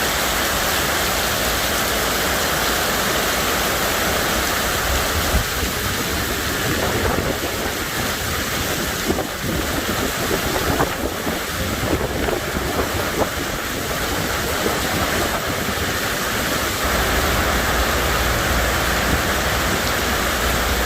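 Heavy rain pouring in a steady dense hiss, with individual drops pattering and splashing close by through the middle stretch. A low rumble comes and goes, strongest at first and again from about three-quarters of the way in.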